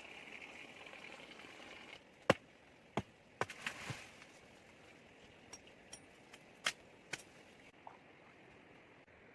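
A steady hiss for about two seconds, then a scattering of sharp knocks and clicks at uneven intervals. The loudest knock comes a little over two seconds in, and a cluster follows about a second later.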